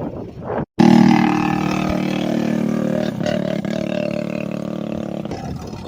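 Small racing engine running loud, starting abruptly with a steady drone that drops slightly in pitch and slowly fades over the next few seconds.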